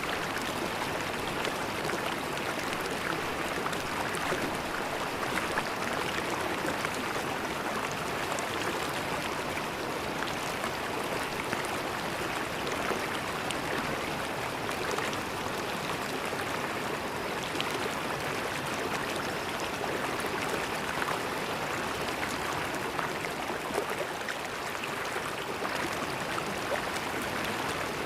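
River water flowing and gurgling over stones, a steady even rush of running water.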